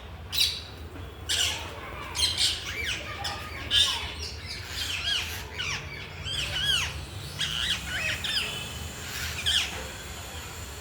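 Parrot squawking and calling over and over: short harsh squawks mixed with arching whistled notes that rise and fall.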